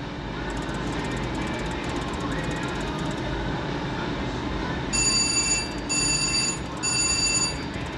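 Casino floor background din of slot machines. About five seconds in, a slot machine gives three short electronic bell-like rings in quick succession.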